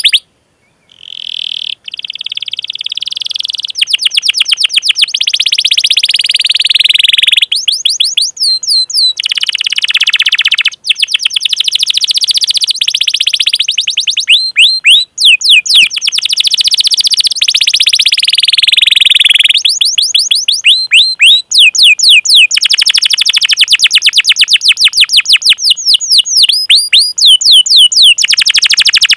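Domestic canary singing continuously in long rolling trills of rapid high notes, broken by runs of quick sweeping 'cuit-cuit' chirps. There is a short break just after the start.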